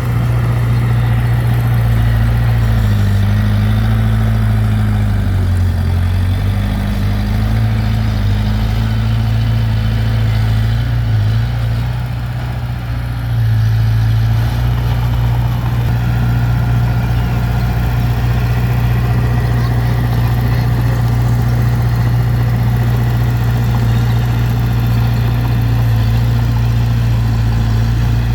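Diesel engine of heavy earthmoving equipment running steadily, its pitch shifting a few seconds in; it eases off for about two seconds just before the middle, then comes back up to its steady note.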